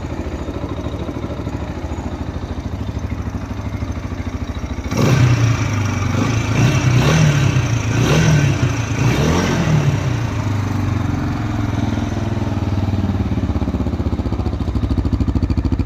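Tekken adventure motorcycle engine idling steadily. About five seconds in it is revved several times in quick succession, pitch rising and falling, then drops back to idle.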